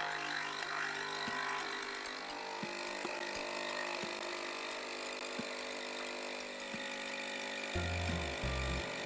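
Nespresso capsule machine running, a steady hum and hiss as its pump brews, with faint ticks about every second and a half. A deep, pulsing bass comes in near the end.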